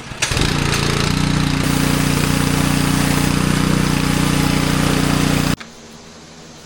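Pressure washer running steadily, its motor's hum under a loud hissing spray that gets stronger about a second and a half in; it cuts off suddenly near the end.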